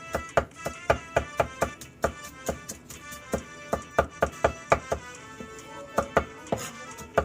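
Knife chopping on a cutting board in uneven strokes, about three a second with a short pause about five seconds in, over background music.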